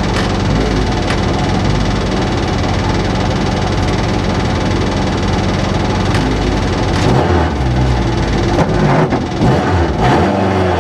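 Rally car engine heard from inside the cabin, idling with the car held stationary, then revved up and down several times in the last few seconds, as before a stage start.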